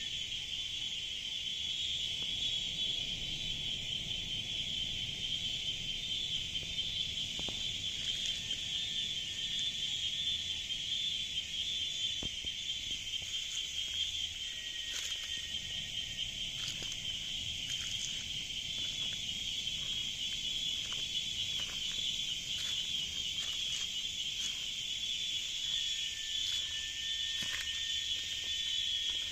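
Cicadas calling in a continuous chorus, a dense, steady high buzz. Scattered short ticks come through in the middle, and a thin steady tone joins near the end.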